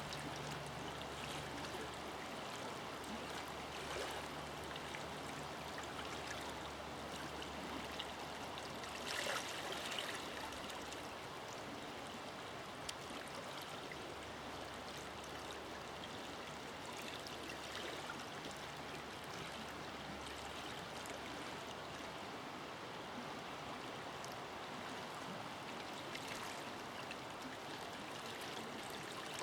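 River water flowing over stones in a forest: a steady rush of running water, with a brief louder splash about nine seconds in.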